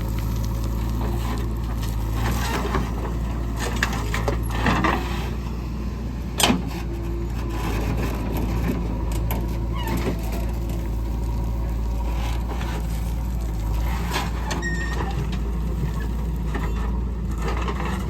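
Heavy diesel machinery running steadily with a low drone, with a few sharp clanks and knocks, the loudest about six seconds in. This fits a backhoe loader working mud into a tractor trailer.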